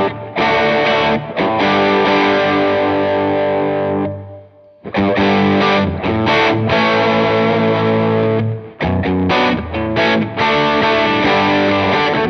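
Electric guitar with P90 pickups (a Gibson Les Paul 50s Tribute) playing sustained chords through overdrive and effects pedals. It cuts out for a moment about four and a half seconds in, then comes back, with short, choppy strummed stabs near the end.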